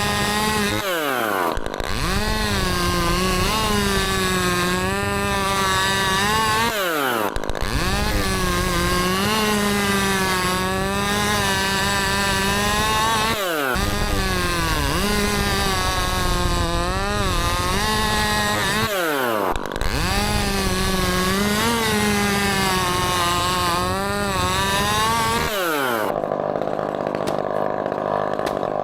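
Two-stroke chainsaw running at full throttle while cutting wood, its note wavering under load. About every six seconds the throttle is briefly let off, so the pitch drops sharply and then climbs back up. Near the end it drops to a lower, duller steady sound.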